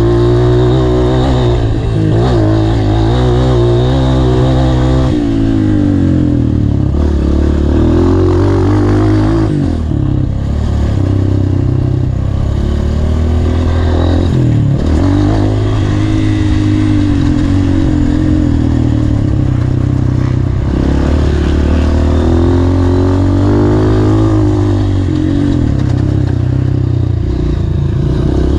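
Honda CRF230 dirt bike engine being ridden hard, its revs climbing and dropping again and again, with sudden falls in pitch every few seconds as the throttle is shut or a gear changes.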